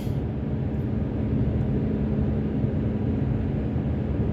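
Car driving steadily on a highway: an even rumble of engine and tyre noise with a steady low hum.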